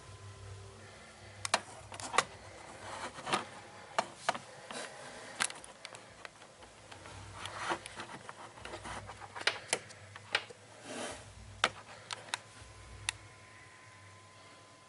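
Light taps and clicks at irregular intervals, about two dozen in all, over a faint steady high hum.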